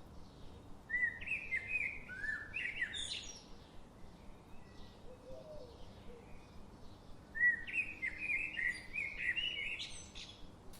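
Small bird chirping in two quick runs of rising chirps, each lasting two to three seconds, the second starting about seven seconds in.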